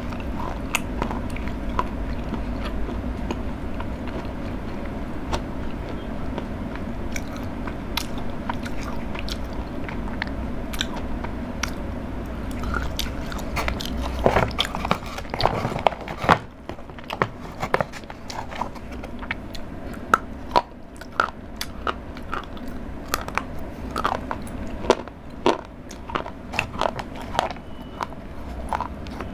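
Close-miked chewing and crunching on chocolate, with a steady low hum that stops about halfway. In the second half, frequent sharp clicks and crackles.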